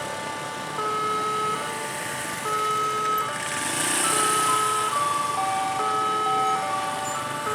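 Railway level-crossing warning alarm sounding, two tones alternating about every 0.8 seconds, with a second, lower pair of alternating tones overlapping in the second half, over the noise of waiting road traffic.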